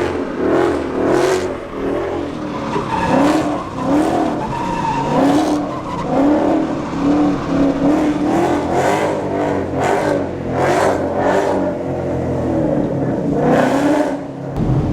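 Ford Mustang's Gen 1 Coyote 5.0 V8 revving up and down over and over in quick bursts as the car slides on a wet road.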